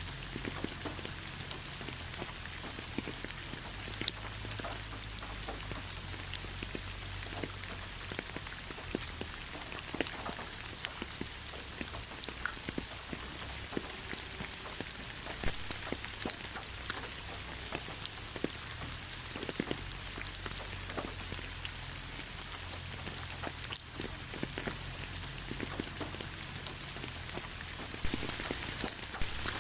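Steady rain falling, a constant hiss with many separate drops pattering and ticking on a surface.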